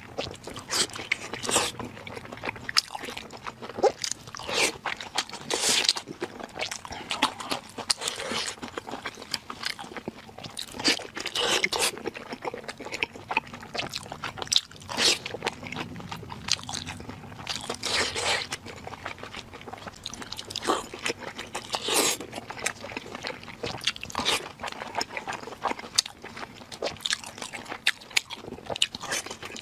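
A person eating close to the microphone: irregular crunchy bites and chewing, several a second, with louder crunches now and then.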